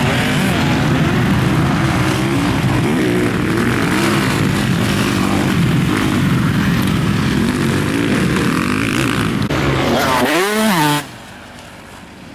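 Motocross bike engine under hard riding, its revs rising and falling as the throttle is worked, with a steady hiss of wind and track noise. About ten seconds in it revs up sharply and falls away, and a second later the sound drops suddenly to a much lower level.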